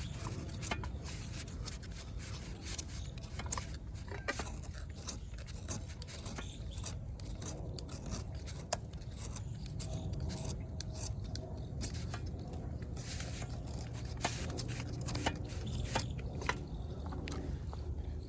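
Baked clay (kulhad cup pieces) crunching and crumbling, with many small sharp cracks and scraping over a steady low hum.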